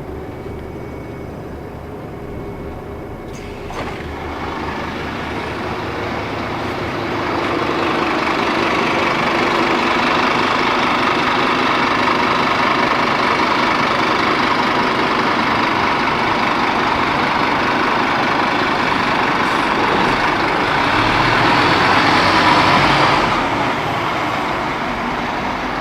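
Scania Citywide LE city bus running: a lower steady engine sound at first, a short knock a little under four seconds in, then engine and road noise build up as the bus pulls away and holds at a high level, easing off slightly near the end.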